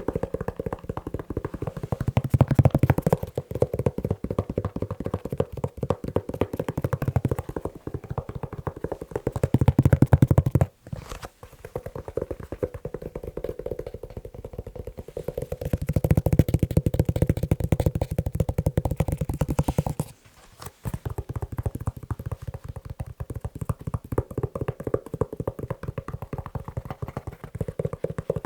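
Fast tapping on a leather shoe, many taps a second, broken by two short pauses about eleven and twenty seconds in.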